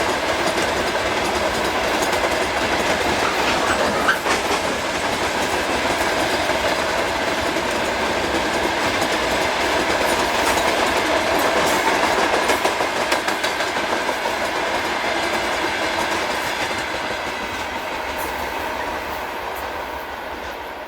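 A train passing close by, its wheels clicking over the rail joints in a continuous rolling clatter that eases near the end.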